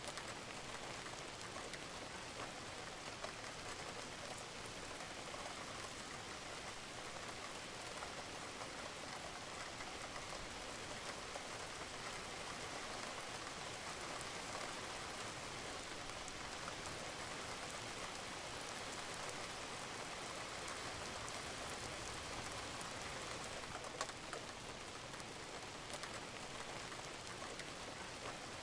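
Steady rain falling on a roof, an even patter with individual drops ticking through it and one sharper drop about 24 seconds in.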